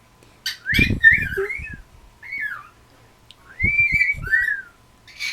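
A cockatiel whistling short rising-and-falling phrases in three bouts, with low thuds under the first and last.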